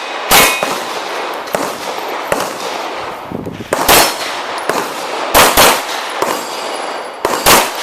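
Pistol shots fired at an irregular pace during a practical shooting stage: about five loud shots (one near the start, one around four seconds in, a quick pair about a second later and one near the end), with fainter shots between. Steel targets ring briefly after the first shot.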